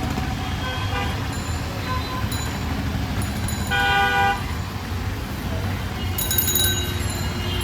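City street traffic with a steady low engine rumble. A vehicle horn toots once for about half a second around four seconds in, and a short high clatter comes near the end.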